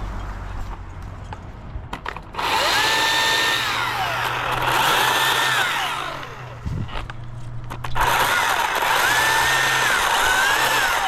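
Chainsaw cutting in two runs, each with the motor pitch rising, holding steady and then falling away as the trigger is released.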